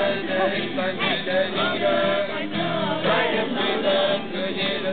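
A group of voices singing a German worship song together, with a sustained melody line that carries on without pause.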